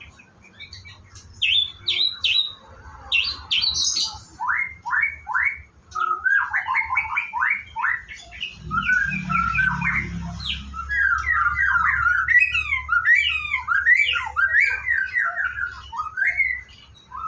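White-rumped shama singing a long, varied run of phrases: quick repeated notes, rising and falling whistles and harsher chattering notes. A low rumble sits underneath from about halfway.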